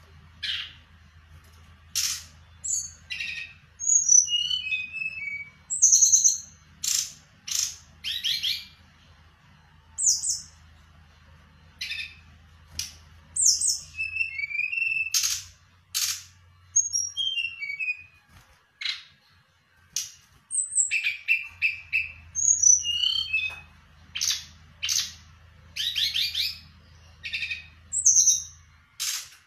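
A songbird singing vigorously and without pause: quick downward-sliding whistled runs alternating with sharp, sudden chirps, one phrase after another. A faint low hum lies underneath, dropping out for a few seconds midway.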